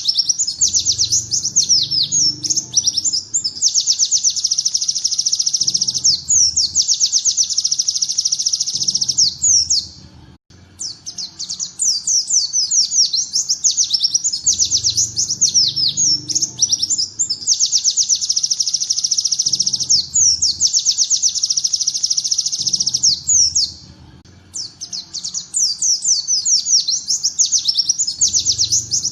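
A pleci (white-eye) singing a fast, high song packed with ciblek-style rapid bursts: quick runs of falling notes alternating with long trilled passages. There are two brief pauses, about ten seconds in and again about twenty-three seconds in.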